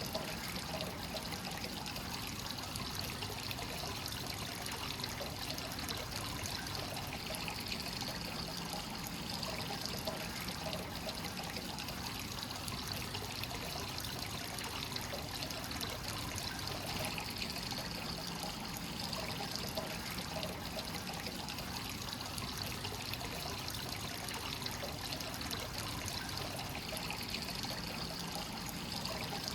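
Hot spring water pouring steadily into a free-flowing bath, an even, unbroken trickle.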